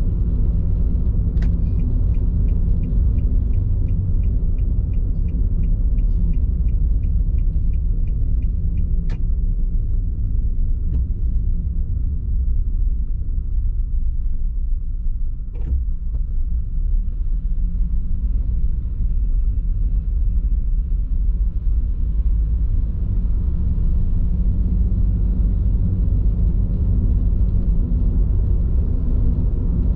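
Steady low rumble of tyre and road noise inside a moving car's cabin on Bridgestone Regno tyres. For several seconds near the start a light regular ticking runs at about three ticks a second, with a few single sharp clicks.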